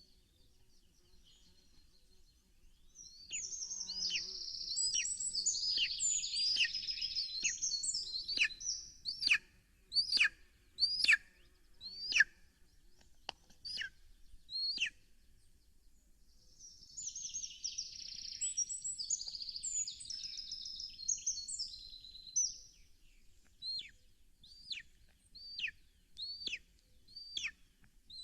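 A small songbird singing two long song bouts. Each is a fast, high warble that ends in a run of separate, sharp, downward-slurred whistled notes.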